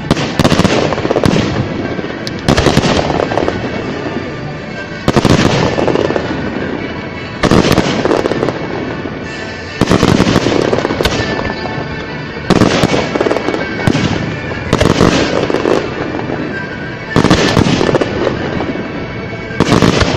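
Aerial fireworks shells bursting in a steady series: a sudden loud bang about every two and a half seconds, each fading out before the next, with music from the pyromusical show playing underneath.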